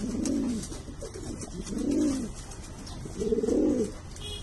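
Domestic pigeon cooing: three low, warbling coos about a second and a half apart.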